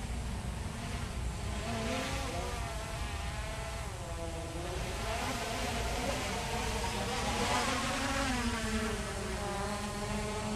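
Hubsan H501S quadcopter's brushless rotors buzzing in flight. The pitch keeps sliding up and down as the motors change speed, and a low rumble of wind runs underneath.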